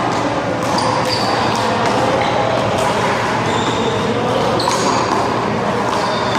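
Rubber handball being slapped by hand and smacking off the concrete wall during a one-wall handball rally: sharp smacks at irregular intervals, roughly one every second, some with a short high ping, over steady background noise and faint voices.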